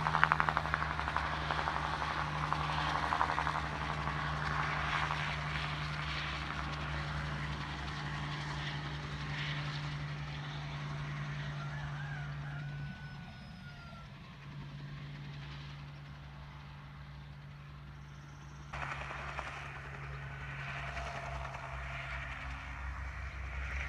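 Crop-duster helicopter flying at a distance: a steady engine and rotor drone. It drops away about halfway through and comes back suddenly near the end.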